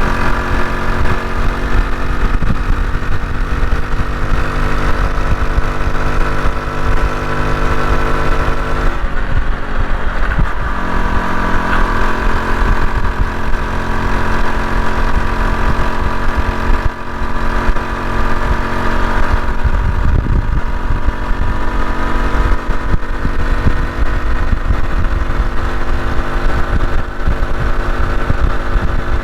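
Honda CT125 Hunter Cub's single-cylinder four-stroke engine running on the road, with heavy wind buffeting on the microphone. The engine note changes about nine seconds in.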